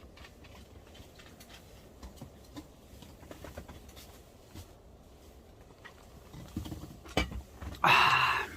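Makgeolli being drunk: faint sipping and swallowing with small clicks, a couple of knocks about seven seconds in, then a loud breathy exhale of satisfaction near the end.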